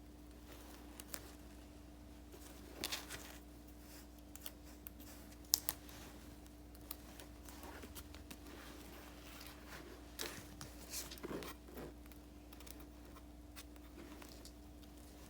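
Sparse rustles, taps and clicks of paper and sticker sheets being handled for diary decorating, with one sharp click about five and a half seconds in, over a faint steady hum.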